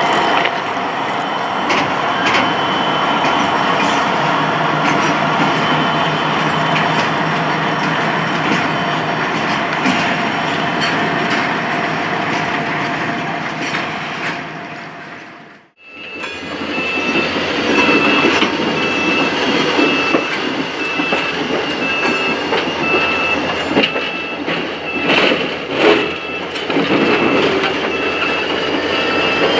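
A diesel train running past. Then, after a cut, a locomotive rolls by close up while a level-crossing warning bell rings in a steady, evenly spaced pulse, with a few clunks from the wheels near the end.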